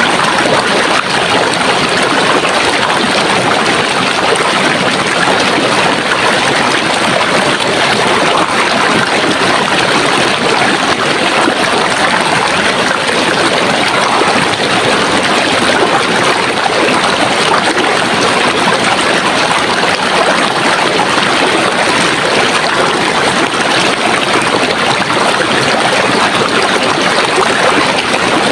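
Running water flowing steadily: an even, unbroken rushing with no pauses or changes.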